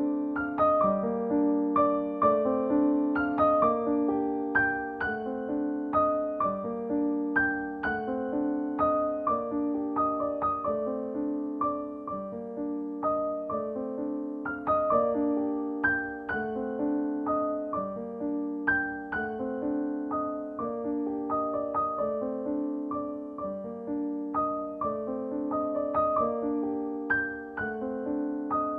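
Gentle, slow solo piano music, with soft notes struck in a steady, repeating pattern.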